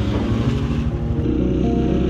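Small motorcycle engine running, with background music coming in about a second in.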